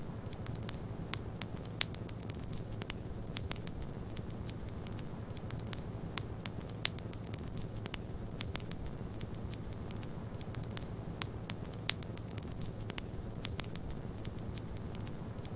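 Wood fire crackling, with irregular sharp pops and snaps, several of them standing out, over a steady low rumble.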